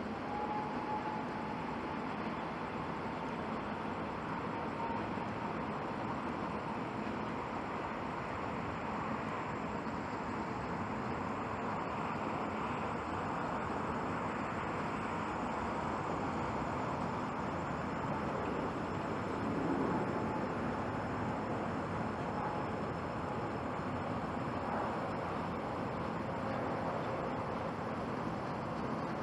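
Jet airliner engines running at takeoff power, here an Airbus A320neo's CFM LEAP-1A turbofans, heard as a steady rumbling roar with a faint thin whine through it, swelling slightly about two-thirds of the way in.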